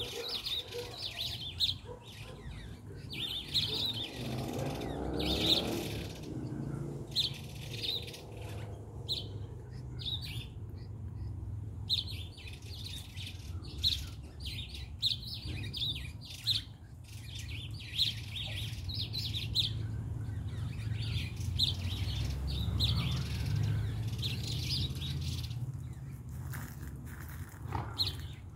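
Small birds chirping, short high chirps coming in quick runs again and again, over a low steady rumble.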